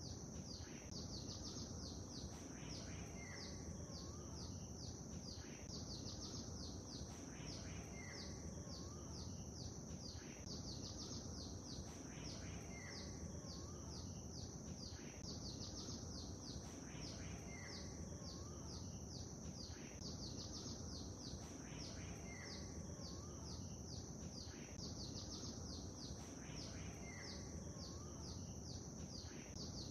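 Small birds chirping in a short call pattern that repeats every couple of seconds, over a steady low wash of lake water.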